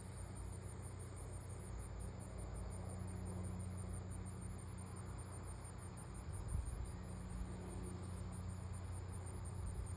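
Insects chirping in a fast, even, high-pitched pulse that keeps up without a break, over a low steady hum, with a soft bump about six and a half seconds in.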